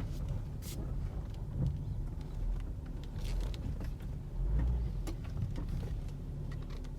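BMW X5 F15 on the move: a steady low rumble with irregular short knocks or clicks every second or two, the strange noise from the trunk that the owner is showing.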